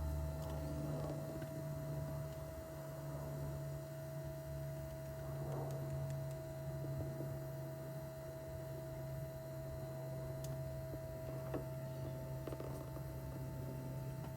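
Smoke leak detector machine running: a steady electrical hum from its air pump as it pushes smoke into the engine's intake during a vacuum leak test.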